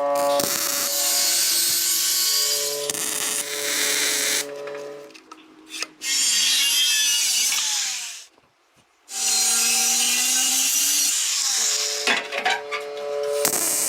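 A power tool running in stretches, a dense high-pitched noise with steady whining tones. It cuts out briefly about five seconds in, then drops away to silence for about a second near the eight-second mark before starting again.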